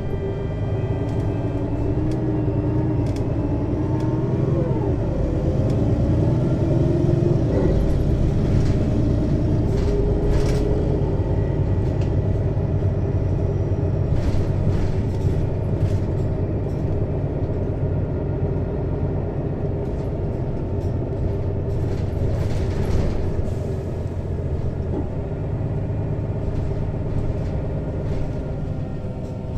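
Mercedes-Benz Citaro city bus's diesel engine, heard from above the engine at the rear, pulling through a ZF Ecomat 2 6HP-592 C automatic gearbox. The engine note climbs and then drops about four to five seconds in, as at a gear change, with short knocks and rattles of the bus body here and there.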